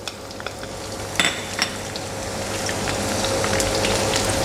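Sliced shallots and garlic sizzling in hot oil in a frying pan, the sizzle growing steadily louder as they fry, with a couple of sharp clicks about a second in as a spatula stirs them in the pan.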